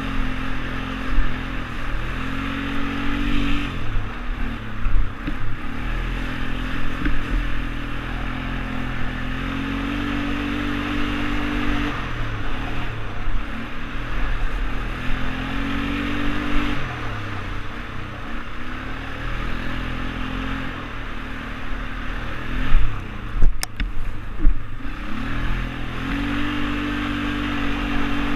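ATV engine running under load while riding, its pitch repeatedly rising as it revs and dropping back off the throttle, over a steady hiss. A few sharp knocks and clatters come near the end, as the machine jolts over rough ground.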